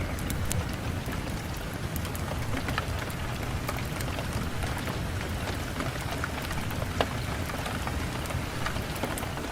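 Steady rain against a window, an even hiss over a low rumble, with scattered sharp taps of individual drops.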